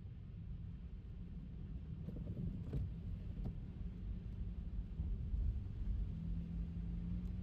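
Low, steady road rumble of a Tesla electric car driving on wet streets in the rain, with a faint steady hum and a couple of light ticks a few seconds in.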